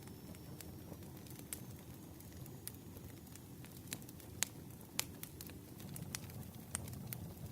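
Campfire crackling: a steady low rumble of burning wood with irregular sharp pops, the two loudest about four and a half and five seconds in.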